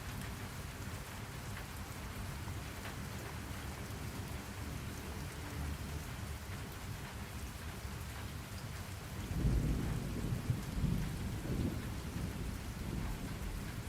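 Steady rain falling, with a low roll of thunder rumbling up about two-thirds of the way through and lasting a few seconds.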